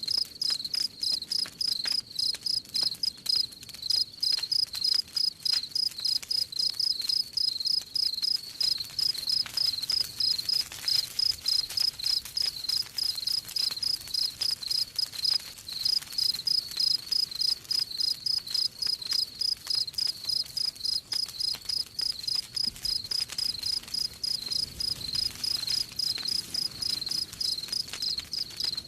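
Crickets chirping in a steady, even rhythm, about three chirps a second, with a few brief breaks. Faint crackling from a wood fire sounds underneath.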